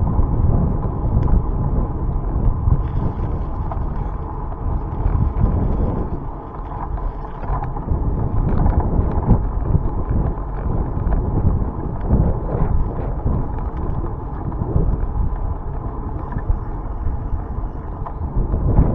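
Wind buffeting the microphone of a camera riding along on a moving bicycle, a fluctuating low rumble with small clicks and rattles scattered through it.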